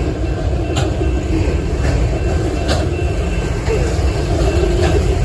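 The last cars of a Union Pacific freight train rolling past with a steady heavy rumble, broken by a few sharp clanks from the wheels and cars.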